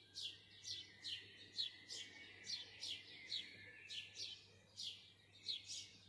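Birds singing before dawn: a regular run of short, high chirps, each sweeping downward, about two to three a second, over a faint steady high tone.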